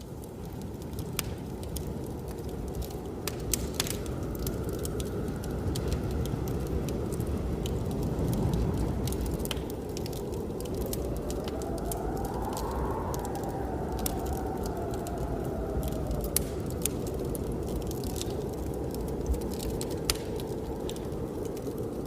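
Wood fire crackling with scattered sharp pops over a steady low blizzard wind. Around the middle the wind whistles, rising in pitch and then falling away.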